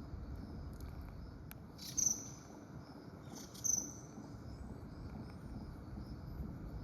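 Common kingfisher giving two short, shrill, high-pitched calls about a second and a half apart, over a steady drone of insects.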